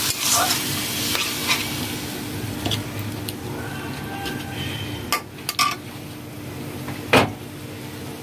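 Spice masala sizzling in a wok after a splash of water is added, while a spatula stirs and scrapes through it. A few sharp knocks of the spatula against the pan come about five seconds in, and the loudest comes about seven seconds in.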